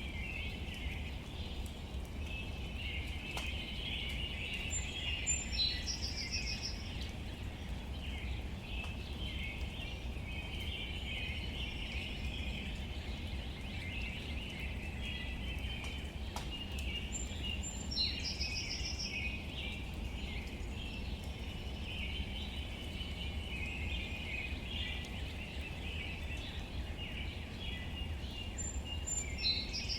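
Outdoor nature ambience: a dense, continuous chatter of birds or insects over a steady low rumble. A bird sings the same short, high phrase three times, about twelve seconds apart.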